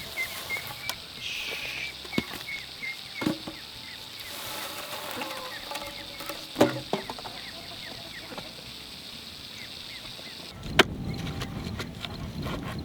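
Birds chirping in rapid runs of short high notes, mixed with scattered knocks and clatter. About ten and a half seconds in, a sharp knock comes with a burst of scuffing and rustling.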